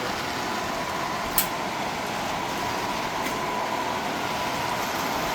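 Miniature model train layout running: a steady whir with a faint high whine, and a sharp click about a second and a half in, with a fainter click about two seconds later.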